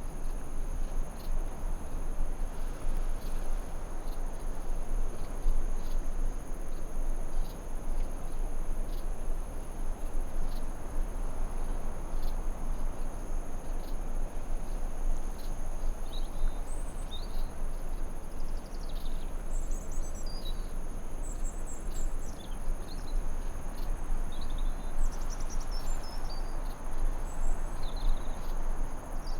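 Forest ambience: a steady high trill of crickets over an even rushing noise, with short bird chirps and twitters coming in from about halfway through.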